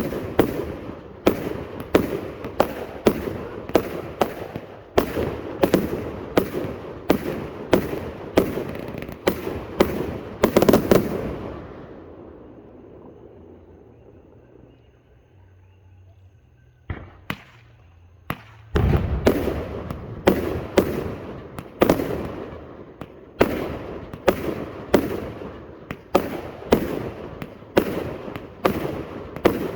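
Multi-shot salute firework cake firing sharp bangs, about two a second. Around the middle the shots stop for about five seconds, then a few single bangs come before the rapid firing picks up again.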